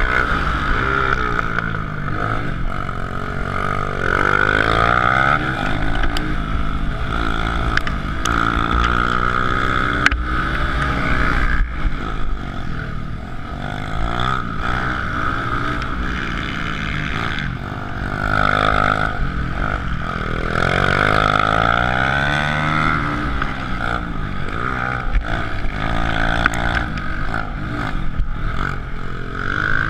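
Suzuki DR-Z125L pit bike's single-cylinder four-stroke engine being ridden hard, its pitch rising and falling again and again as the throttle is opened and shut.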